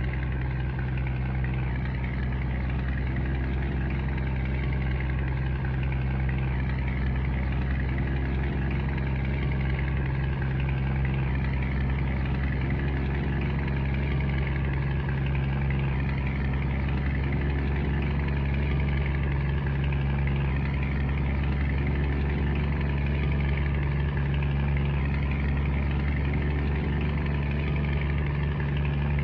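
Scania truck's diesel engine running at a steady speed, a constant low drone with no change in pitch.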